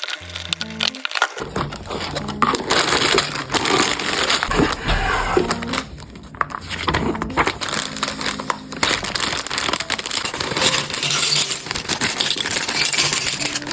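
LEGO set packaging being handled and opened: plastic bags crinkling and rustling, with many small sharp clicks.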